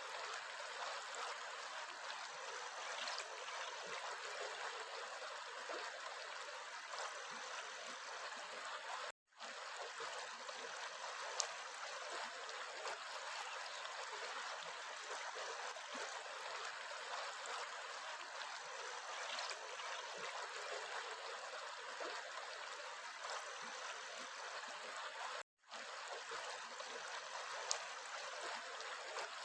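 A flowing stream: a steady, even rush of water that cuts out to silence for an instant twice.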